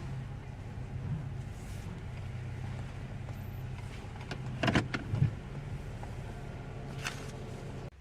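Car engine running with a steady low hum as the car is parked, with two short clunks a little past halfway and another later. Near the end the engine is switched off and its hum cuts out suddenly.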